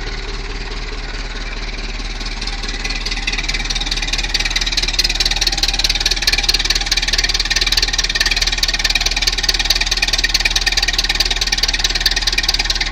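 Massey Ferguson 265S tractor's diesel engine running after a cold start at minus ten degrees, a steady clattering run that gets louder and brighter about three seconds in and then holds.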